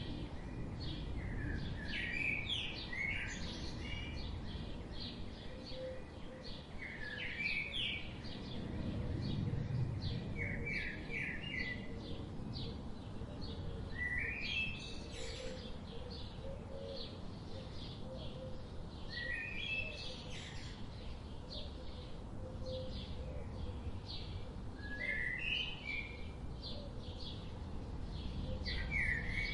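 Several birds chirping: short rising chirp phrases repeat every few seconds over many quick high tweets, against a steady low background noise.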